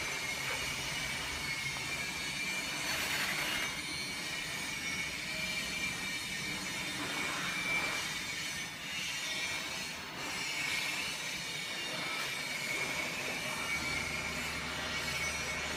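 Steady high-pitched machine whine over a constant hiss.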